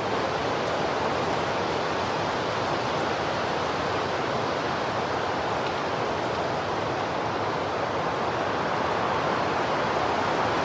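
Strong wind blowing as a steady, unbroken rush, as in a sandstorm.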